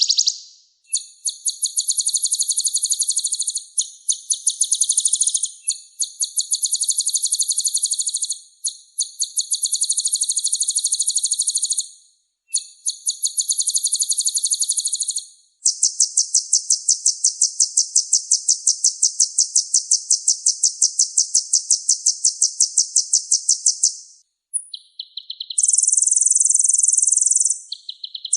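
Kolibri ninja sunbird singing: long, very rapid trills of high, evenly repeated notes, in phrases a few seconds long with short breaks between them and one unbroken trill of about eight seconds midway.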